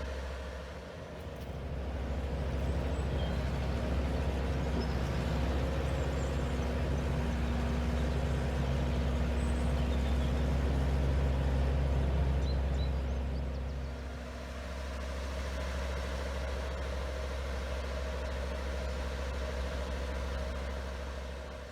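Heavy truck's diesel engine running steadily. It builds up about two seconds in, stays louder for roughly ten seconds, then eases back before carrying on.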